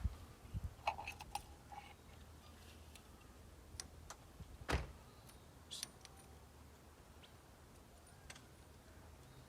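Faint, scattered clicks and clinks of small hardware being handled on a poultry waterer, its level-adjusting nuts being worked, with one sharper click about five seconds in.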